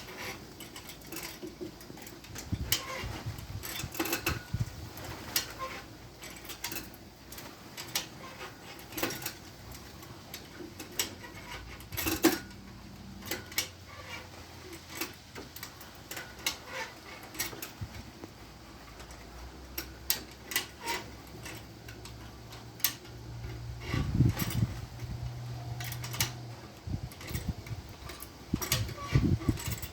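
Scattered metallic clicks, clinks and knocks of tools and hardware being handled during work on a planer's motor, with no steady rhythm, and a faint low hum at times.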